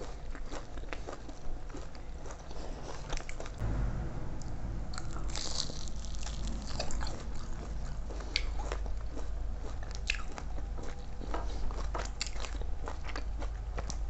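Close-miked eating: a person biting and chewing food with many short crisp crunches and wet mouth sounds.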